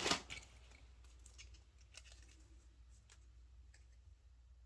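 Costume jewelry being handled: a brief rustle and clatter at the start, then faint, scattered light clicks of beads and metal pieces knocking together.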